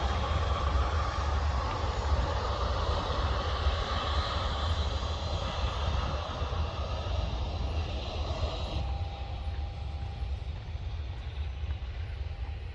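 Jet engines of a departing Emirates airliner climbing out after take-off: a steady rumbling roar with a deep low end. The roar slowly fades, and its higher hiss drops away about nine seconds in.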